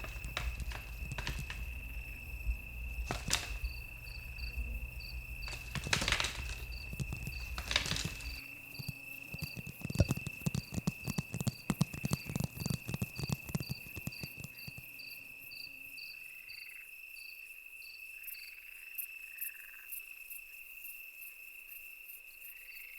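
Steady high trilling of crickets, with a faint chirp repeating about three times a second above it. Scattered sharp knocks and scuffling clatter come and go, densest from about eight to fourteen seconds in, then fade so that only the insects remain near the end.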